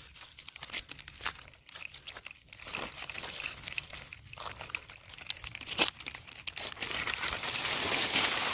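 Leaves and undergrowth crackling and rustling as a toy bicycle is pushed by hand through them. The crackling comes in scattered bits at first and grows thicker and louder near the end.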